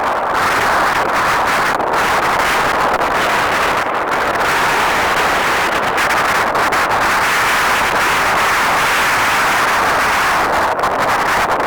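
Wind blowing across the microphone: a loud, steady rushing noise.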